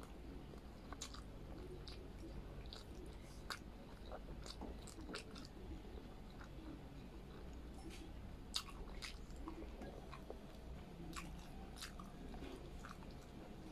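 Close-up chewing of soft braised pork belly and rice, eaten by hand, with scattered sharp wet mouth clicks. A faint steady low hum lies underneath.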